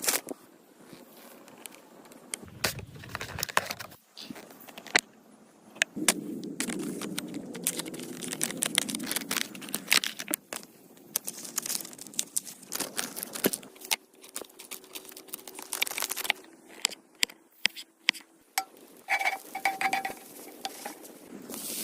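Kitchen food-preparation handling sounds: a long run of sharp taps and clicks of utensils and ingredients, with noisy rustling stretches between them.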